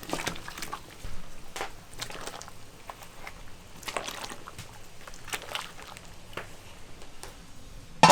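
Liquid pouring and sloshing in a kitchen, with scattered light clinks and knocks at irregular intervals.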